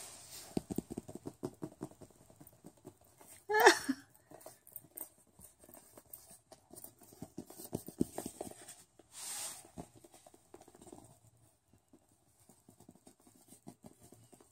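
A budgie chasing fingers across a carpet: a light, irregular patter of small taps and scuffs. A short gliding chirp comes about four seconds in and a brief hiss near nine seconds, with the tapping thinning out over the last few seconds.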